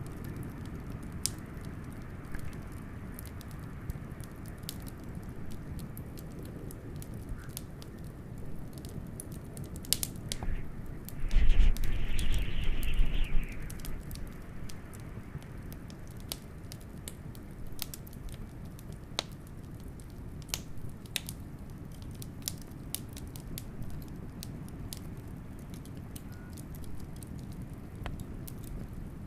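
Wood fire crackling with scattered sharp pops over a steady low rush of blizzard wind. About halfway through, a louder burst of hiss and rumble lasts about two seconds.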